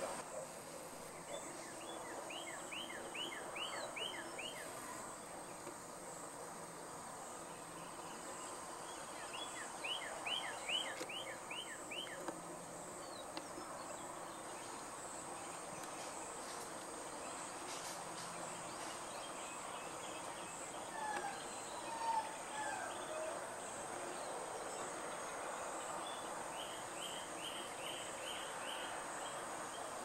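Outdoor ambience with a songbird singing a quick series of six or seven downward-slurred whistled notes three times, plus a few lower calls about two-thirds of the way through. A steady thin high tone and a faint hiss lie under it.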